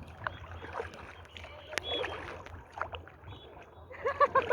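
Kayak paddling: paddle blades splashing in the water with scattered light knocks. A short burst of voice comes about four seconds in.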